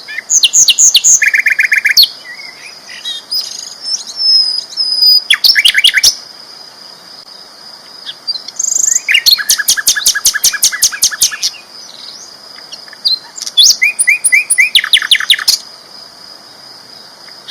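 Sikatan londo flycatcher singing loudly in repeated bursts of fast, high, rattling note series, with short pauses between phrases, over a faint steady high-pitched tone.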